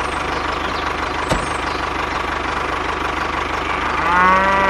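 Tractor engine idling steadily with an even knocking beat. About four seconds in, a cow's long moo starts over it.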